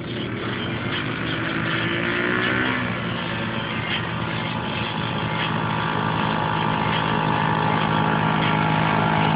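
Dirt bike engine revving up with rising pitch for about three seconds, dropping back as it shifts, then running at a steady pitch and growing louder as it nears.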